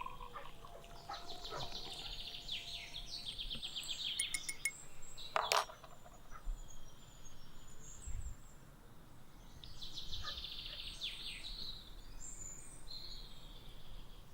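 A songbird singing: two phrases of rapid repeated high notes, the first about a second in and the second about ten seconds in. A single sharp click falls between them.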